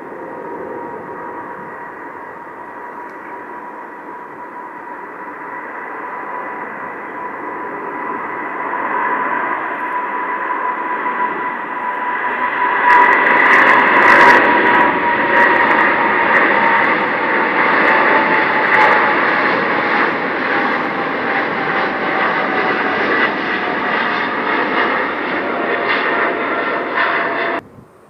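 Boeing 777 twin jet engines at takeoff power, growing louder to a peak about halfway through. Over the jet noise there is a steady fan whine that slowly falls in pitch as the plane passes and moves away. The sound cuts off abruptly near the end.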